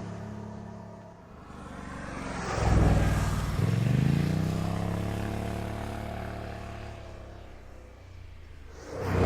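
A car's engine accelerating: a loud swell about three seconds in, then the engine note climbs and levels off as it fades away. Another loud swell comes at the very end.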